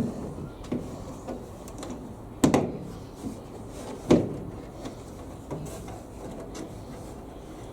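Knocks and clatters of a tumble dryer's panel and fascia parts being handled during reassembly, with two louder knocks about two and a half and four seconds in and lighter taps between.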